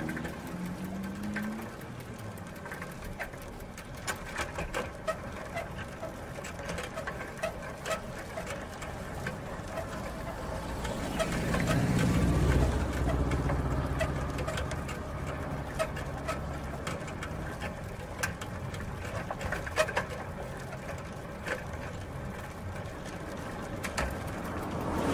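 Bicycle drivetrain sounds: chain and gears running with a stream of irregular light clicks and ticks. A low rumble swells up about halfway through and fades away again.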